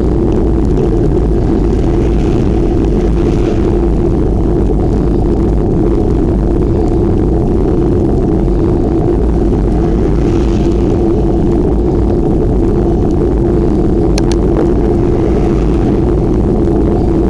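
Loud, steady rushing of wind over the microphone while riding a bicycle, with a faint click about fourteen seconds in.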